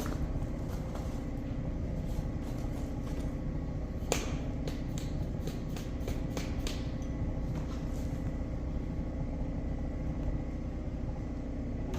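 A steady machine hum runs throughout, like an engine running. About four seconds in there is a sharp knock, followed over the next few seconds by a run of lighter metal clicks and taps from hand work.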